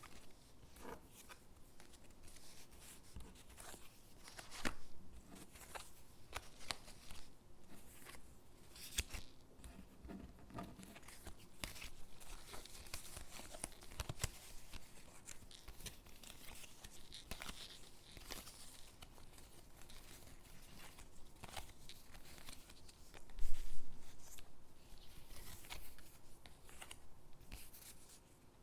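Stickers being peeled off their backing sheet and pressed onto paper gingerbread cutouts: soft tearing and rustling of paper with scattered small clicks and taps, and one louder thump about three-quarters of the way through.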